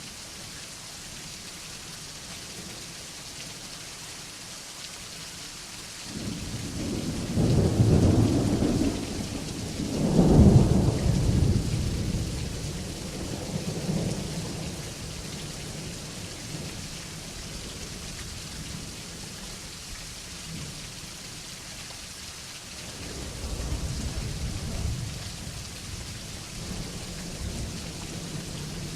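Steady rain with thunder: a deep rumble rolls in about six seconds in, swells twice, and fades away, then a second, softer rumble comes near the end.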